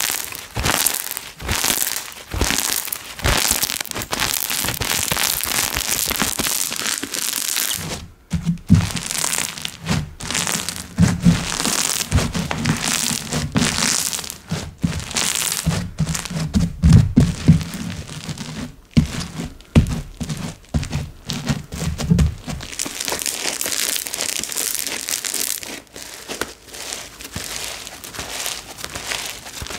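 Slime being worked by hand, with a dense run of crackles and clicks. From about eight seconds in until about twenty-two seconds in, dull thumps join them as the slime is pressed and slapped.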